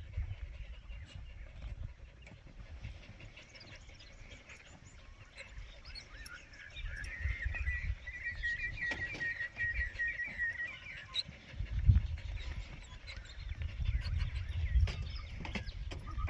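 Wild birds chirping outdoors, with one bird giving a steady trilling call from about seven to eleven seconds in. Low rumbling runs underneath, with a single thump about twelve seconds in.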